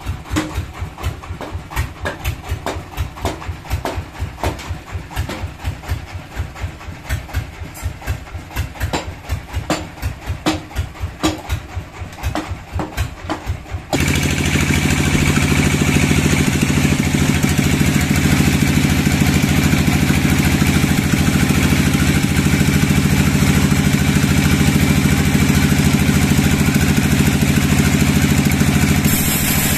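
Sawmill machinery running: first a slow, even, low thumping about three times a second, then, after a sudden cut about halfway through, a loud, steady engine drone.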